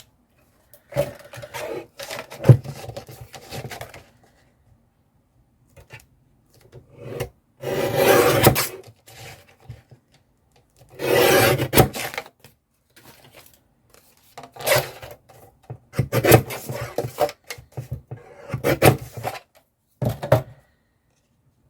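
Paper and card craft materials being handled on a tabletop: a series of separate rubbing and rustling bursts with short pauses between them.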